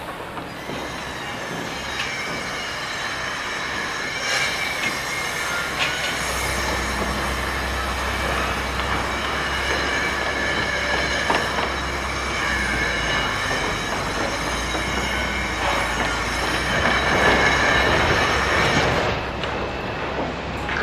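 Heavy vehicle or machine rumbling with a steady high-pitched metallic squeal. The rumble starts a few seconds in, builds to its loudest near the end, then eases.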